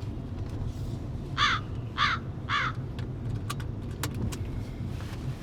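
A crow cawing three times, evenly spaced about half a second apart, over the steady low rumble of a car. A few sharp clicks follow.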